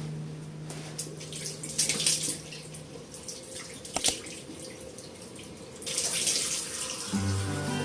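Water from a tap splashing into a sink, irregular at first, then running steadily from about six seconds in, with a single sharp clink near the middle.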